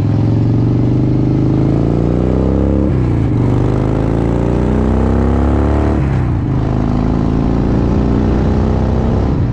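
Motorcycle engine accelerating through the gears: its pitch climbs, drops at an upshift about three seconds in, climbs again, and drops at a second upshift about six seconds in, then runs steadier.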